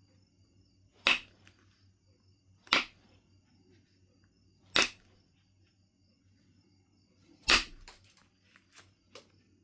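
Knife River flint being knapped: four sharp clicks of stone detaching flakes, spaced one to three seconds apart, then a few fainter clicks near the end.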